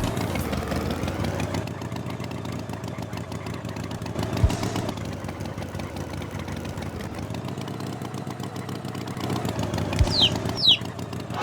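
A motor running steadily with a slowly wavering tone, with two quick falling chirps near the end.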